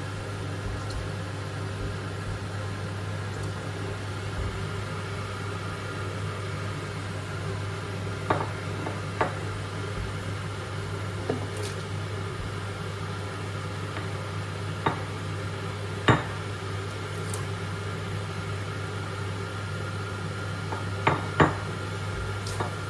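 Scattered clinks and knocks of a cooking pot and utensils as whole ingredients go into it, about seven sharp strikes in the second half, over a steady electrical hum.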